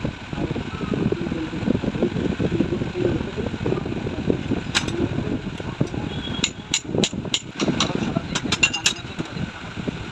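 Metal parts and tools clinking during hand work on a motorcycle rear shock absorber. There is one sharp click a little before the middle, then about a dozen quick clinks, some with a short ring, until near the end, over a steady low background rumble.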